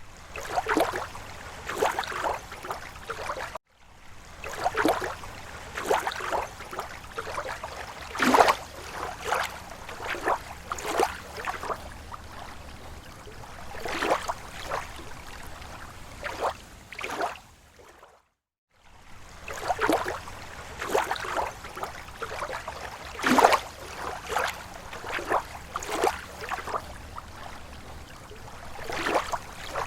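Small waves lapping against a lake shore: irregular slaps and splashes of water, about one a second, over a low steady wash. The sound cuts out briefly twice, about 3.5 and 18.5 seconds in.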